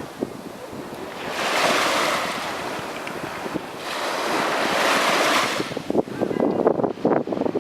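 Sea waves breaking and washing up a sandy beach in two surges a few seconds apart, with wind gusting on the microphone near the end.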